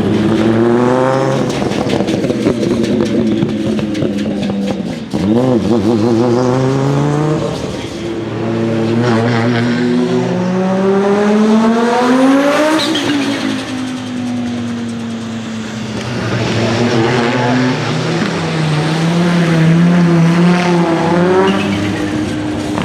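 1992 Audi S4 IMSA GTO's turbocharged 2.2-litre five-cylinder engine accelerating hard, its pitch climbing and dropping back several times as it shifts through the gears. It passes close by about halfway through, the pitch falling as it goes away, then climbs again near the end.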